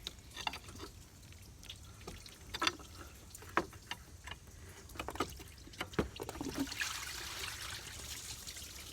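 Metal parts and tools clinking and knocking as the thermostat housing on a Duramax 6.6 diesel is worked loose and lifted. From about two-thirds of the way in, a steady trickle of liquid joins the clinks.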